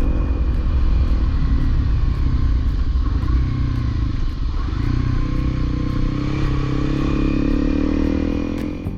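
Honda CRF250L single-cylinder motorcycle engine running under way, with a strong low rumble beneath it. Over the last few seconds the engine pitch rises steadily as the bike accelerates.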